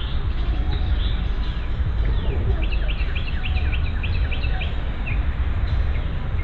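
A songbird singing a quick run of about eight repeated, falling notes a few seconds in, with other scattered bird calls, over a steady low rumble.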